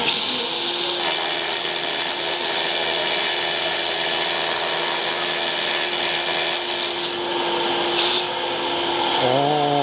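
Power drill running steadily under load while drilling overhead, with a constant motor whine that stops about eight seconds in.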